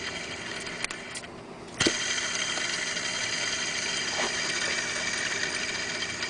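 Worn bearing in a BMW E46's mechanical belt tensioner pulley spinning freely with the belt off, making a steady rough whirr with whining tones. It fades briefly, then after a click near two seconds in it picks up again. The noise is the sign of a failed bearing, more than likely really dry.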